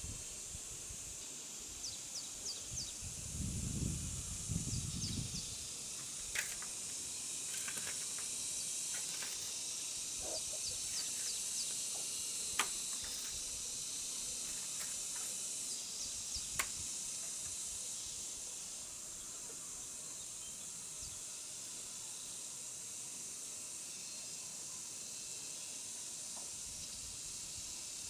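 Steady high-pitched hiss of outdoor ambience, with scattered sharp clicks and a few low knocks in the first five seconds, and a few short high chirps near the start.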